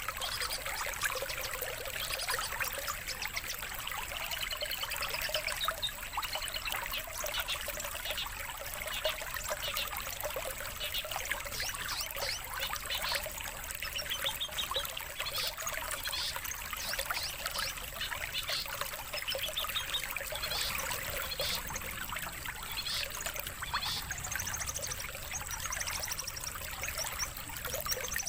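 Songbird chirps and rapid trills, many short high phrases following one another, over a steady trickle of running water and a thin, steady high tone. This is a recorded birdsong track used to lure long-tailed shrikes (cendet) and to train contest songbirds.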